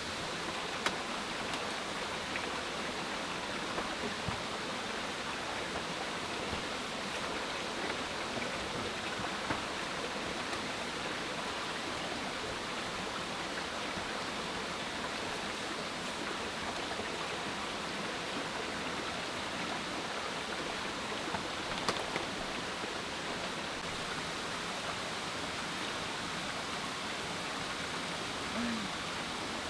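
Steady rushing water noise, with a few faint sharp clicks scattered through.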